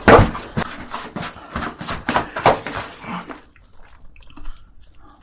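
Close-miked mouth and eating noises from someone eating very spicy food: a quick run of clicks and smacks that dies away about three and a half seconds in.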